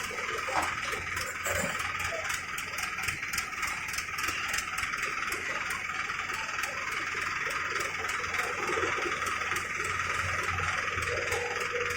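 Tractor engine idling steadily with a rattling tick, over a steady machinery hiss.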